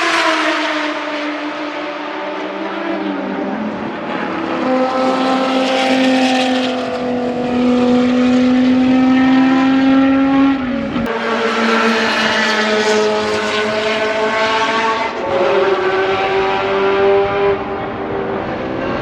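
Group C prototype race car engines on track at speed. The pitch falls as a car goes by, climbs and holds high for several seconds, then shifts again as other cars follow. There is a single sharp crack about eleven seconds in.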